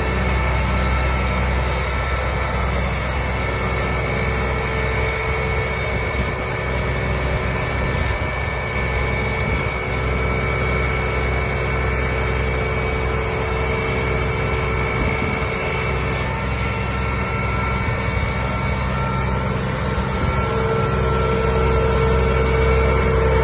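Renault Camiva fire truck's engine running steadily, growing a little louder near the end.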